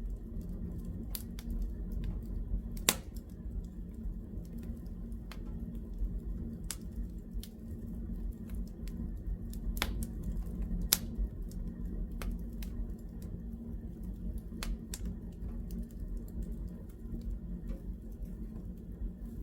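Fire in a fireplace crackling, with irregular small pops and two sharper snaps about 3 and 11 seconds in, over a steady low rumble.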